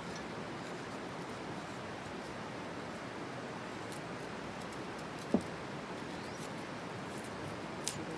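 Campfire burning: a steady hiss with scattered faint crackles, a louder snap about five seconds in and a sharp crack near the end.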